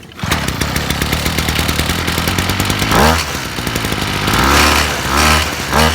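Dirt bike engine catching and running at a steady idle, then revved in short blips, once about halfway through and several times near the end; the engine is still cold.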